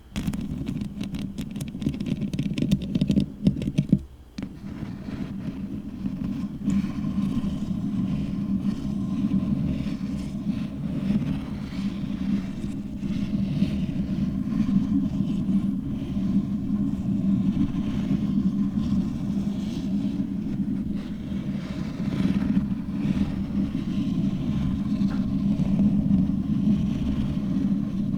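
Long fingernails rubbing and scratching directly on a foam-covered microphone, giving a dense, steady, muffled rumble with a short break about four seconds in.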